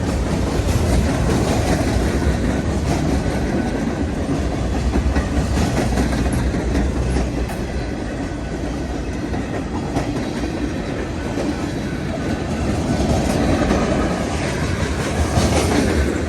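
Freight cars of a mixed freight train rolling past at speed: a steady, loud rumble of steel wheels on the rails.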